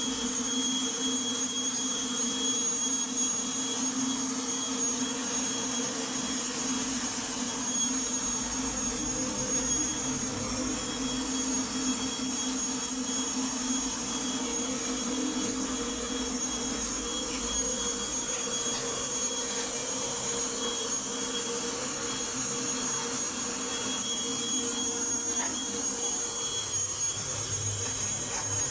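Everything Bee Vac bee vacuum running steadily as it sucks honey bees out of a wall colony: an even motor drone with a thin high whine over a lower hum.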